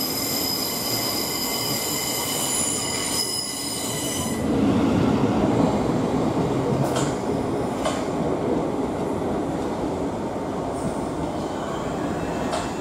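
A Southeastern electric multiple unit moving slowly through the station. A high, steady multi-tone squeal cuts off about four seconds in, giving way to a low rumble of the train running on the rails, with a few faint clicks later on.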